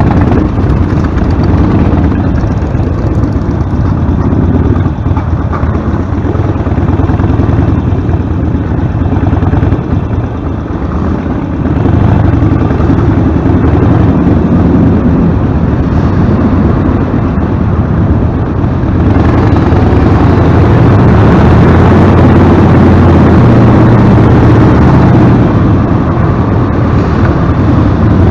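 Harley-Davidson Sportster's V-twin running through a Vance & Hines Short Shots Staggered exhaust, a steady, loud engine note. The note grows louder and brighter about two-thirds of the way in.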